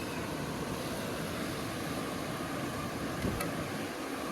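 Steady rushing of a waterfall, an even, unbroken wash of water noise, with one small click about three seconds in.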